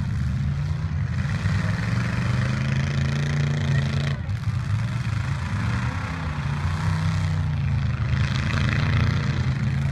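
Derby truck engines running and revving hard, their pitch rising and falling, with a brief break in the sound about four seconds in.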